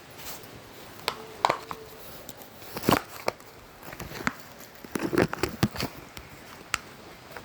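Scattered sharp clicks and knocks at irregular times, a cluster of them a little after the middle, over a steady faint hiss.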